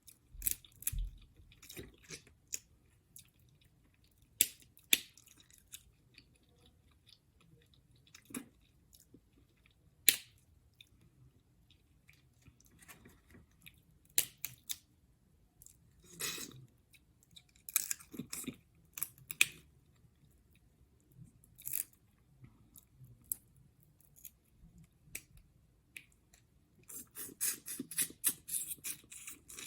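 Close-up eating sounds of crab legs and shrimp in butter sauce: chewing with sharp clicks and snaps at irregular intervals, and a dense run of crackling near the end.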